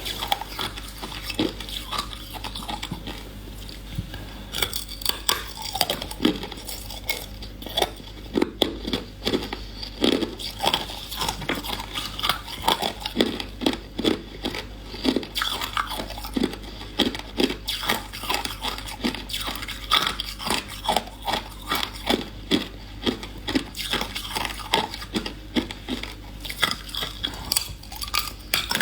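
A person chewing hard ice cubes close to the microphone: rapid, irregular crunches, a few each second, with no break.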